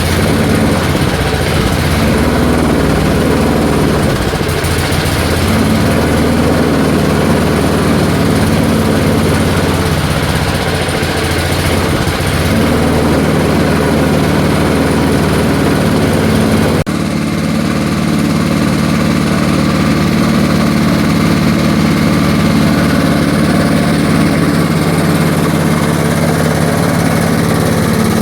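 A 1978 Allis Chalmers 19-inch push mower's small engine runs steadily after sitting about ten years, on fuel dosed with PB Blaster to soften its stiff carburetor diaphragms. A sharp click comes about seventeen seconds in, and the engine note changes abruptly after it.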